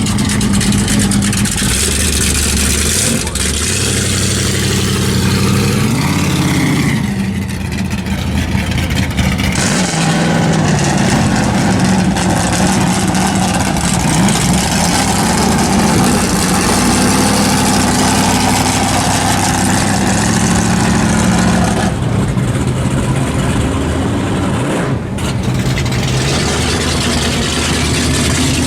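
Drag-racing car engines running loud and continuous, with the pitch of the engines shifting as they rev and a rise about six seconds in.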